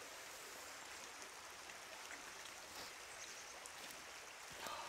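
Faint, steady rush of running water, with a few small clicks and a soft rustle near the end.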